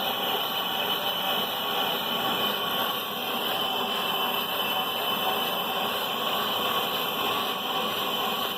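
Bench brake lathe running a resurfacing cut on a brake rotor: a steady machining noise with a constant high ringing tone over it.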